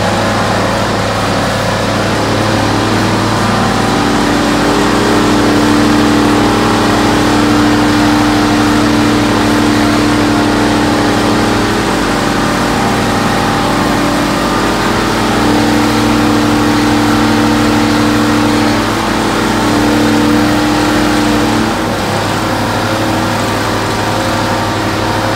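A car's V8 engine held at high revs during a burnout. The revs hold steady, sag and pick up again a few times, and ease off near the end.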